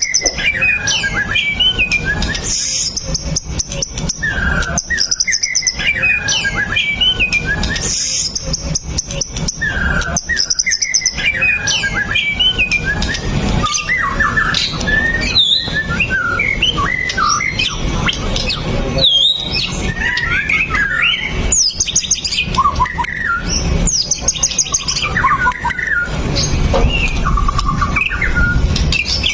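White-rumped shama singing without pause: a varied song of whistled phrases, sliding notes and quick high chattering trills, over a steady low rumble.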